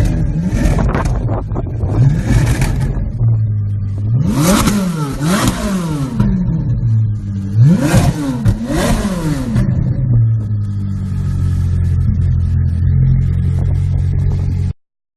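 An engine idling steadily, revved up and down several times in quick succession about four seconds in and again about eight seconds in, then settling back to idle before cutting off abruptly.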